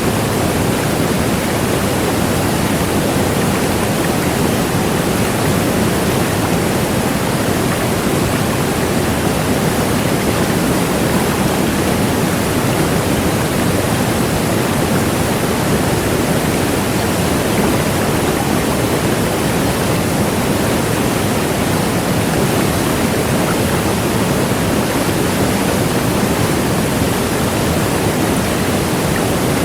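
Large waterfall: a deep, steady rush of falling water with no breaks or changes.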